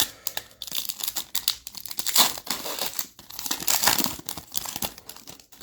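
A trading card pack's wrapper being torn open and crinkled by hand: a dense, irregular run of crackles that stops near the end.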